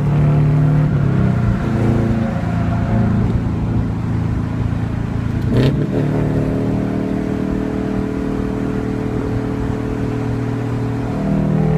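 A Subaru Outback's flat-four engine running through a cat-back exhaust with no muffler or resonator and unequal-length headers, heard while driving. The engine note shifts in pitch over the first few seconds, a sharp knock comes about halfway, then it holds a steady note and builds again near the end.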